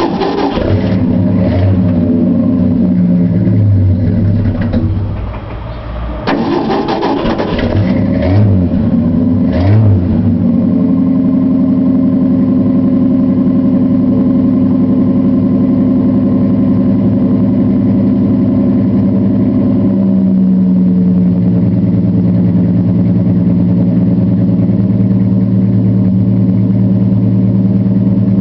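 Cold start of a Ford 300 cubic-inch straight-six, heard through its Flowmaster 40 series muffler: the engine catches and is revved, sags about five seconds in, and is brought back up with several throttle blips. About ten seconds in it settles into a steady idle, which drops a little in pitch around twenty seconds in. The engine had sat unstarted for a couple of weeks.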